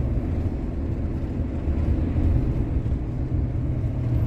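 Steady low drone of a panel-van camper's engine and tyre noise, heard from inside the cabin while driving.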